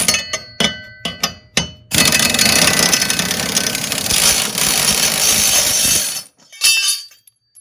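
A few sharp metallic clinks, then a pneumatic air ratchet runs steadily for about four seconds, spinning off the bolt that holds a riding mower's cutting blade. A short second burst comes near the end.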